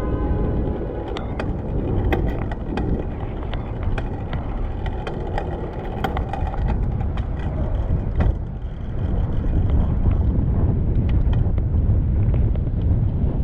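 Wind rumbling on the microphone of a moving bicycle amid city traffic noise, with scattered sharp clicks and rattles. A brief pitched whine sounds in the first few seconds.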